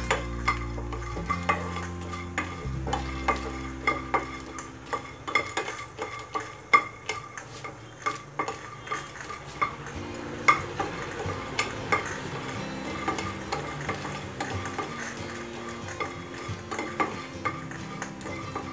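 Wooden spatula stirring peanuts as they dry-roast in a nonstick pan: the peanuts rattle and slide across the pan, with frequent sharp taps of the spatula against the pan surface.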